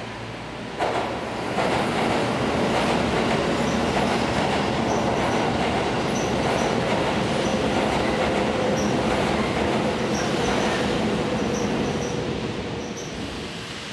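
Keisei Line electric train passing overhead on the elevated girder bridge. The wheel and track noise comes on suddenly about a second in, stays loud, and fades near the end.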